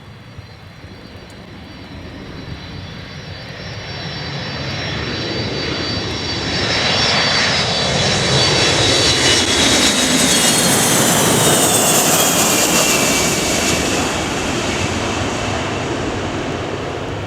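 Boeing KC-135R Stratotanker's four CFM56 turbofan engines passing by. The jet noise builds steadily and is loudest roughly ten to fourteen seconds in, then fades, with a high whine that slides down in pitch as the aircraft goes past.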